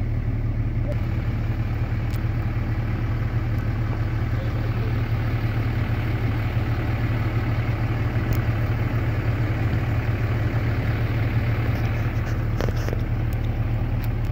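Car engine running steadily at low revs, a low even rumble heard from inside the car.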